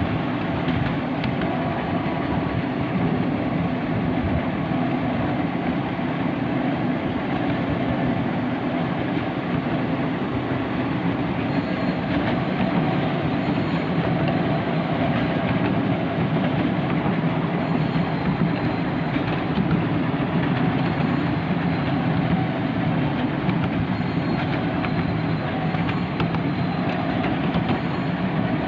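Miniature railway train running along the track, heard from aboard a carriage: a steady rumble of wheels on the rails with a dense run of small rapid clicks.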